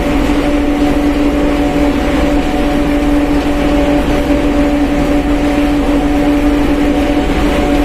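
Mercedes-Benz OF1721 BlueTec 5 bus running at a steady pace, its engine and drivetrain giving an even hum with a constant whine through it.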